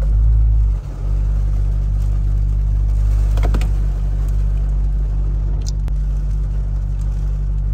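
Dodge Charger R/T's 5.7-litre Hemi V8 idling steadily, heard from inside the cabin. It is a little louder for the first second, then settles.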